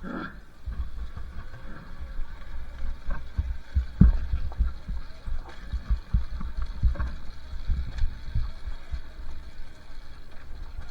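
Muffled low rumble with many irregular thumps, the strongest about four seconds in: a two-stroke dirt bike being ridden on a trail, heard mostly as wind buffeting and jolts on the camera microphone.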